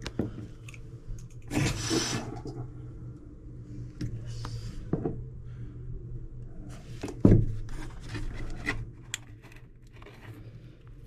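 Metal tools and faucet fittings being worked: clinks, scrapes and knocks, with a sharp louder knock about seven seconds in, over a steady low hum.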